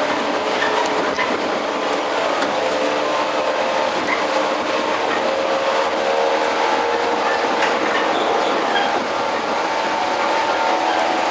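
Running sound heard inside the 115 series electric train's motor car MoHa 114-102: the traction motors and gears whine in several steady tones over the rumble and hiss of the wheels on the rails.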